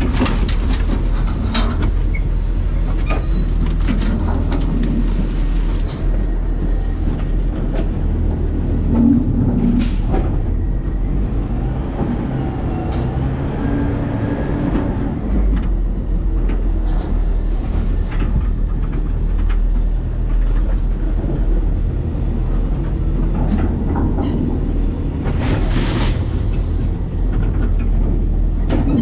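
New Way Sidewinder side-loading garbage truck heard from inside its hopper: a steady, loud low rumble of engine and machinery with rattling and clattering throughout, and a few louder knocks, one about ten seconds in and another near the end.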